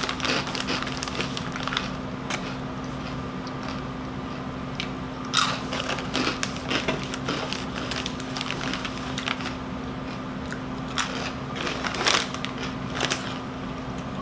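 Crunchy rolled tortilla chips (Doritos Dinamita) being bitten and chewed close to the microphone, in crunching spells near the start, about five seconds in and again about eleven seconds in.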